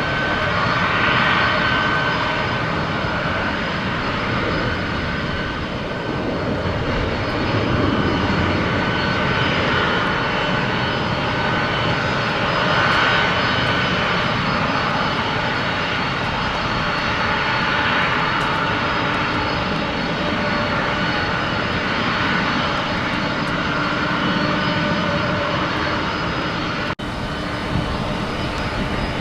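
Airplane engines running steadily, a continuous rumble with a high whine on top that swells and eases slowly, dropping out for a moment near the end.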